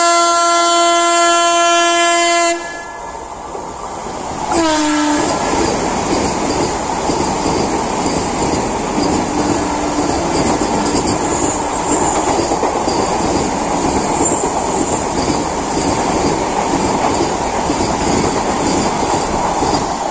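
Vande Bharat Express electric trainset sounding one long horn blast, then a short second blast about four and a half seconds in that drops in pitch. After it comes the steady rush and wheel clatter of the train running past at speed.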